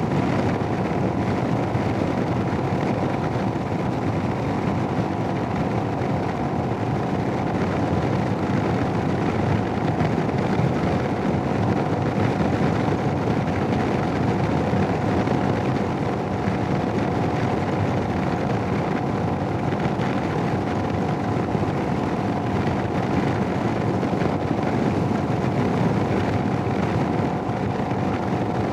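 Steady rush of wind and a constant engine hum from a Royal Enfield Himalayan single-cylinder motorcycle cruising at an even speed, picked up by a helmet-mounted Sena 10C Evo camera microphone. The wind noise is heavy on this microphone.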